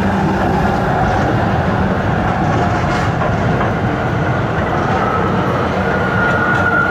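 Tram running on its rails with a steady rumble. A faint high whine comes in about five seconds in and rises slightly in pitch.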